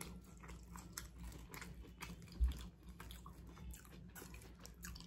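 Close-miked chewing of a mouthful of burrito: soft wet mouth clicks and smacks over a low steady hum, with one dull low thump about two and a half seconds in.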